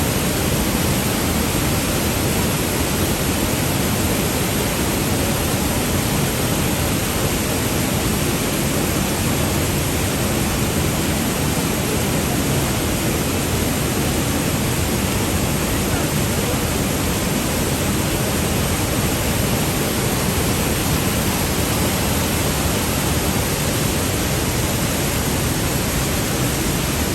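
Rhine Falls' water thundering: a steady, loud rush of falling water with no break or change.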